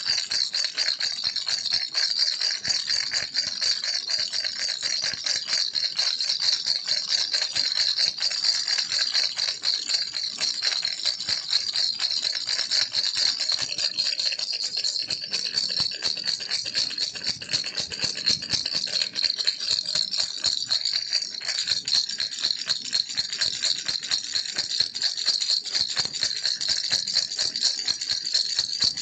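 Baby rattle shaken continuously, a dense, fast, bright rattling that keeps on without a break.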